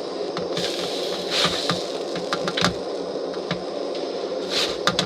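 Light irregular clicks and taps of a utensil against cookware, with a few short scrapes, over a steady hiss.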